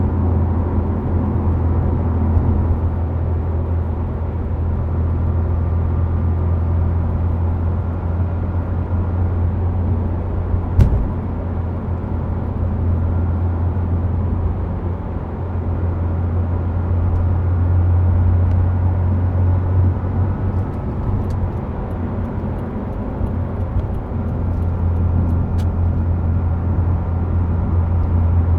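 Subaru Impreza WRX STI Spec C with an A-RM aftermarket muffler cruising steadily: a constant low engine and exhaust drone over tyre and road noise. One sharp knock comes about eleven seconds in.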